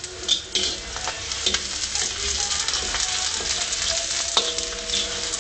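Sliced onion, whole spices and freshly added curry leaves sizzling in hot oil in a wok, stirred with repeated scrapes of a spoon against the pan.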